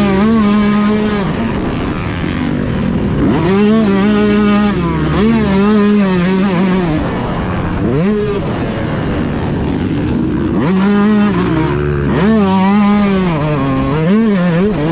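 Motocross bike engine at racing speed, its revs climbing and falling again and again as the rider works the throttle and gears.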